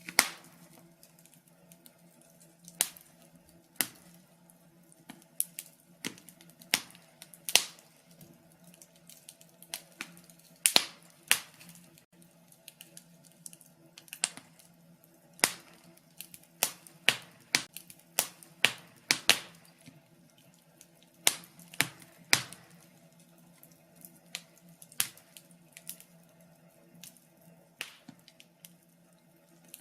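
Wood fire crackling in a fireplace: irregular sharp pops and snaps, roughly one or two a second, some much louder than others.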